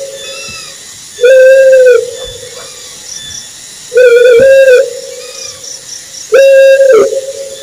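An owl hooting: three loud, steady-pitched whistled hoots, each under a second long and a few seconds apart, with faint high chirping behind them.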